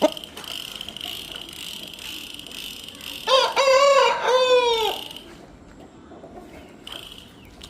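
A Parrot-beak Aseel rooster crowing once, about three seconds in: a crow of about a second and a half in a few arching syllables, over a steady high-pitched hum.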